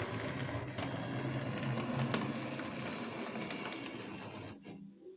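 Small electric motor of an old kit-built 00 gauge model locomotive running, a steady whirr with a low hum and light clicks of wheels on track, that cuts out about four and a half seconds in; the owner puts the stop down to a set of points he had not changed.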